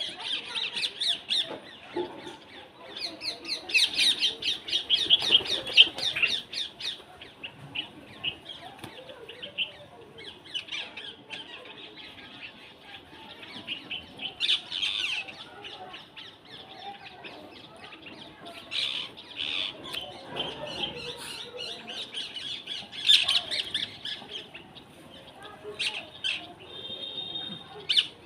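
A chorus of many birds chirping and squawking together, with short, rapid high notes throughout and louder flurries of calls about four seconds in, around the middle, and again near the end.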